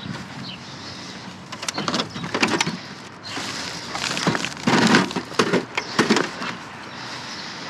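Irregular clattering, knocking and crunching of junk being handled and rummaged through, a cluster of impacts in the middle with the loudest around the fifth second.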